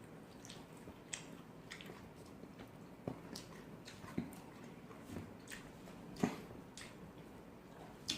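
A person eating up close: chewing and mouth smacks with scattered small clicks and taps, the loudest about six seconds in.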